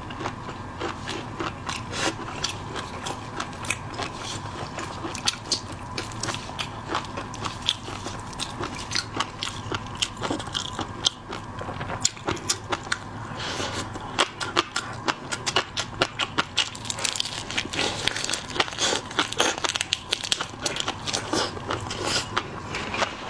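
A person eating seafood close to the microphone: chewing with many sharp wet clicks and cracks, thicker in the second half.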